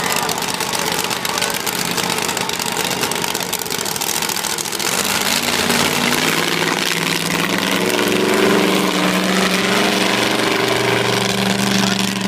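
Monster truck engine running: its note comes in about five seconds in, climbs as it revs up, then holds steady.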